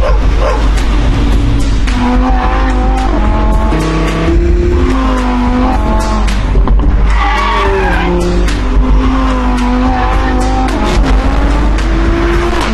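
Audi R8's V10 engine revving hard, its pitch rising and falling, mixed with a music track.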